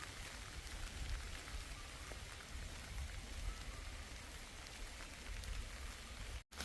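Steady rain falling, with scattered drops ticking. The sound cuts out for an instant near the end.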